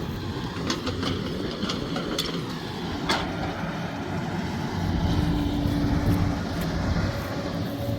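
Sumitomo SH370LHD-6 excavator's diesel engine running steadily, getting louder about five seconds in, with scattered sharp knocks in the first few seconds.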